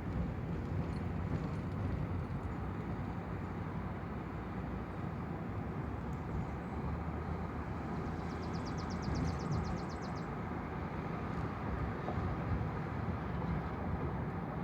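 Steady vehicle and road noise: a continuous low rumble and hiss. A short run of rapid, faint high-pitched ticking sounds about eight seconds in.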